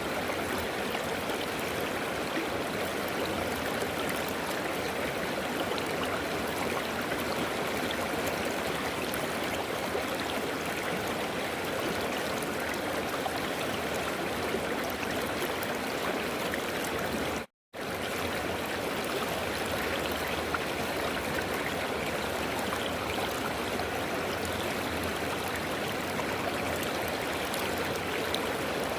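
River water flowing, a steady rushing with some gurgling. The sound cuts out completely for an instant about two-thirds of the way through, then resumes unchanged.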